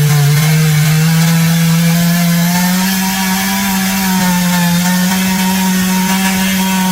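Chainsaw engine running flat out at a steady pitch as it cuts through a large oak trunk.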